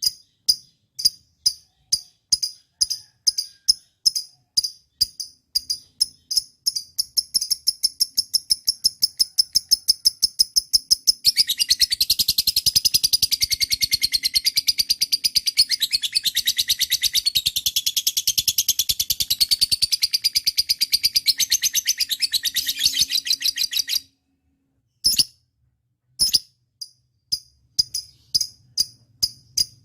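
Lovebird calling in sharp, high, repeated chirps that come faster and faster, then run together into one long continuous trill of about twelve seconds that stops abruptly; after a short pause the single chirps start again.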